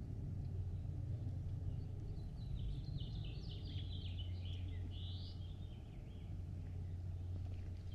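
A songbird singing a quick run of high chirping notes for about three seconds in the middle, over a steady low background rumble.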